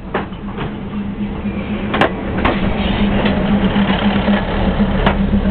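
Diesel railcar passing at walking pace very close by, its engine droning steadily and growing louder, with irregular clacks of the wheels on the rail joints.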